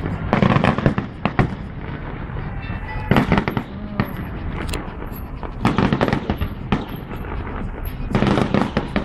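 New Year fireworks going off in four clusters of bangs and crackling, roughly every two and a half seconds, over a steady low rumble.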